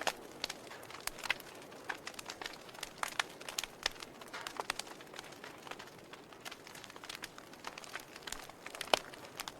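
Wood fire crackling in a fireplace: irregular snaps and pops over a soft hiss, with one sharper, louder pop near the end.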